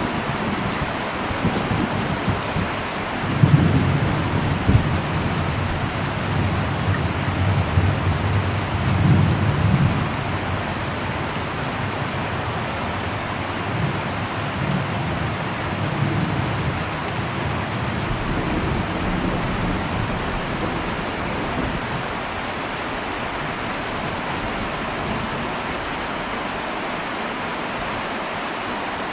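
Heavy rain drumming steadily on an old metal roof, with low rolls of thunder rumbling, heaviest a few seconds in and dying away after about twenty seconds.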